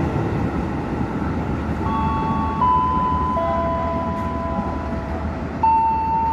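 A passenger train passing through a station at speed, with a steady rumble of wheels on the rails. About two seconds in, a slow tune of long, steady electronic notes starts over it, changing pitch every second or so.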